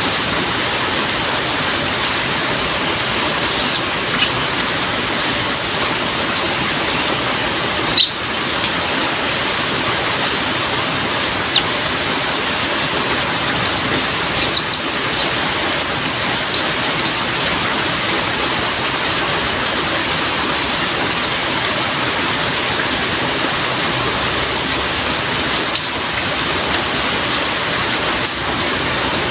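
Steady heavy rainfall, an even continuous hiss of rain on surfaces. A few short high chirps cut through it, three in quick succession about halfway through.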